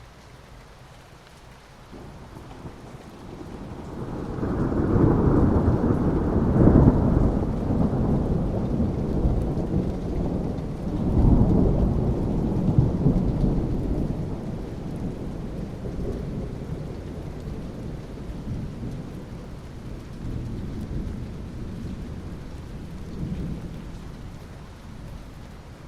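Steady rain with a long roll of thunder: the rumble builds a few seconds in, swells twice, then fades slowly back into the rain.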